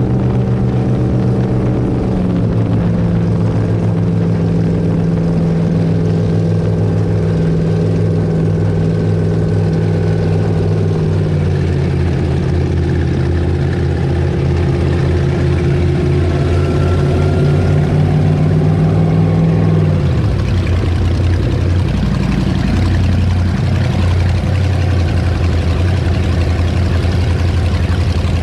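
Avanti 33 powerboat's twin V8 engines running steadily. The engine note drops slightly about two seconds in, climbs gently later on, then falls sharply about twenty seconds in to a lower, steady running speed as the throttles come back.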